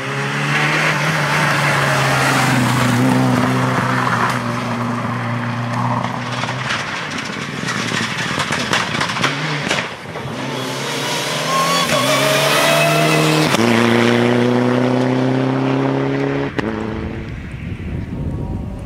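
Rally car engine running hard at high revs. About twelve seconds in the revs climb, drop sharply at a gearshift, then hold steady again. A sharp knock comes near the end.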